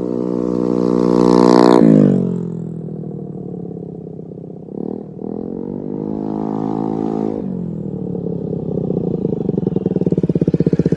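Honda Ruckus's 49cc four-stroke single-cylinder scooter engine running through an aftermarket MNNTHBX GP V3 exhaust, revved up with the throttle snapping shut, blipped once, revved and let fall again, then held at a steadier, throbbing speed near the end.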